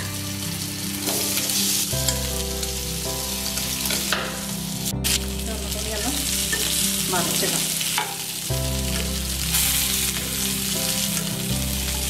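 Marinated quail pieces sizzling as they fry in ghee and coconut oil in a non-stick pan, turned over with a spoon that scrapes the pan. A sharp knock about five seconds in.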